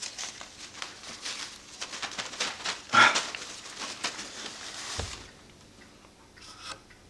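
Rustling and light clicking of paper pieces being handled at a workbench, with a soft thump about five seconds in.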